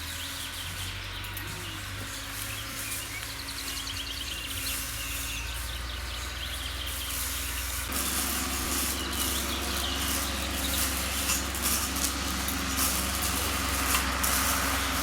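A vehicle engine's steady low hum, with birds chirping over it in the first half. About eight seconds in the hum gets louder and fuller.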